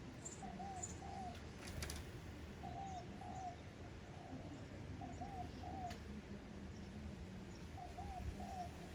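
A dove cooing: pairs of short, low arched notes, one pair about every two and a half seconds, four times. Faint high cheeps from a sparrow nestling in the nest and a couple of soft clicks come through beneath it.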